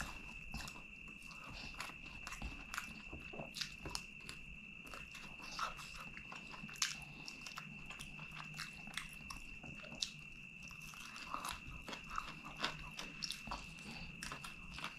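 Close-miked chewing and biting of chicken curry and rice eaten by hand: wet mouth smacks and clicks with a few crunches. A faint steady high whine runs underneath.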